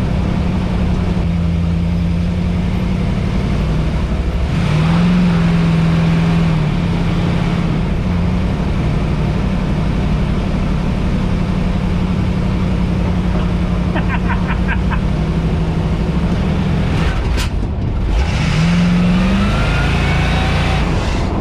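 The supercharged engine of a 1952 Mercury running loud while the car is driven on the road. Its note holds steady and rises as it speeds up about five seconds in, and again near the end.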